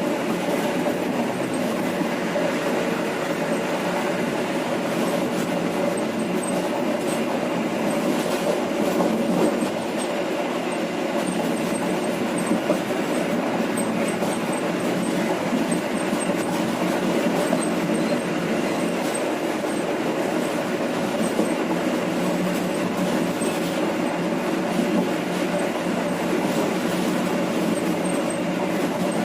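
Indonesian local passenger train (KA Penataran) running along the track: steady running noise of wheels on the rails, heard from on board.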